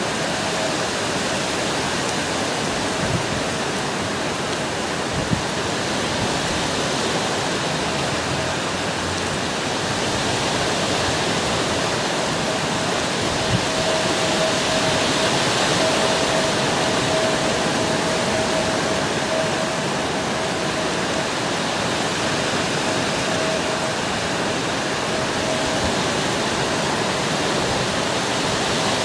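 Steady heavy rain falling on the trees and ground outside a screened window, an even rushing hiss with a slight swell midway. A thin faint high tone comes and goes over it, and a few soft knocks are heard in the first half.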